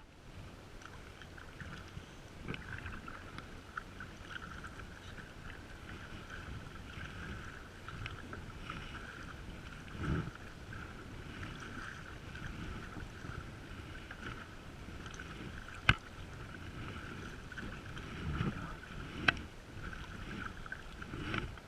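Sea water splashing and lapping around a sea kayak as it is paddled, with a few dull bumps and two sharp knocks in the second half.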